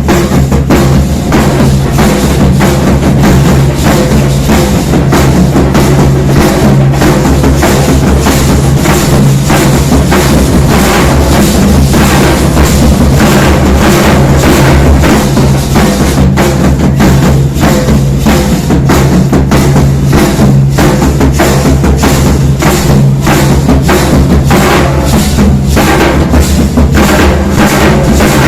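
Loud percussion music: dense, fast drumming that keeps on without a break.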